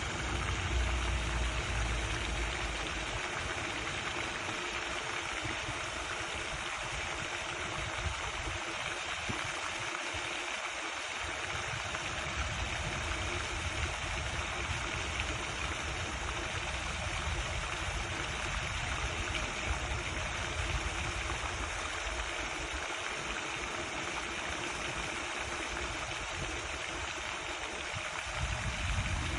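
Lake fountain spray falling back onto the water in a steady, even splashing rush, with a low rumble that comes and goes underneath.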